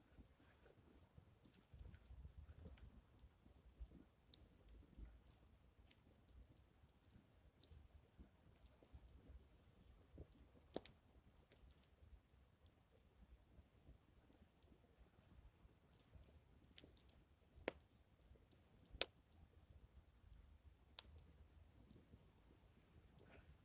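Faint, sparse crackling of a small wood fire: irregular single snaps and pops, a few louder ones in the second half, over a soft low rumble in the first few seconds.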